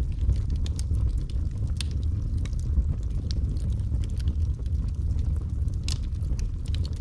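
Wood fire crackling, with irregular sharp pops and snaps over a steady low rumble of burning; one louder pop about six seconds in.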